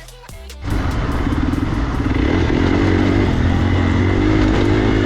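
Electronic music cuts off under a second in, and a Hero XPulse motorcycle's single-cylinder engine starts being heard running steadily, with a rushing noise over it.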